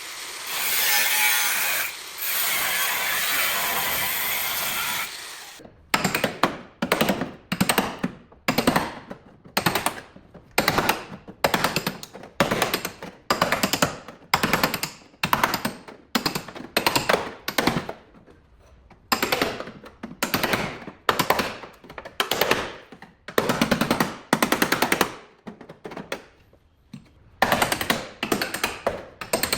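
A handheld power tool running continuously for about five seconds, then worked in many short bursts, a little under two a second, each burst a rapid chatter.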